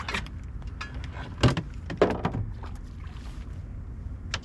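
A few sharp knocks and thumps, two louder ones about a second and a half and two seconds in, over a steady low rumble.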